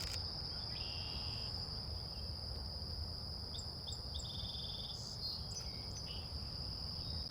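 Steady, high-pitched insect drone, typical of crickets, with a few short bird chirps and a brief trill about a second in and again around the middle, over a soft low outdoor rumble.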